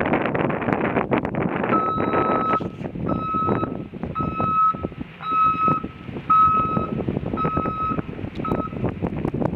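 A truck's reversing alarm beeps steadily, about one beep a second, seven times, the last one cut short. Wind buffets the microphone throughout, loudest before the beeping begins.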